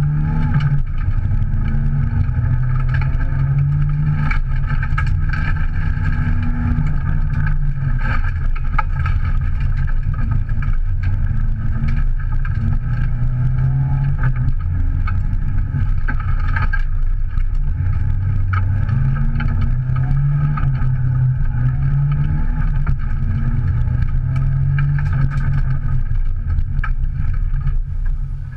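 Subaru Impreza's 1.8-litre naturally aspirated flat-four engine, heard from inside the cabin, revving hard on a dirt stage, its pitch climbing and dropping again and again with gear changes and lifts. Sharp clicks of gravel striking the car's underside come through throughout.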